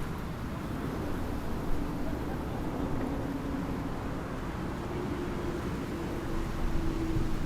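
A motorboat engine running steadily at low speed over a low rumble of wind and water. Its note steps up slightly about halfway through.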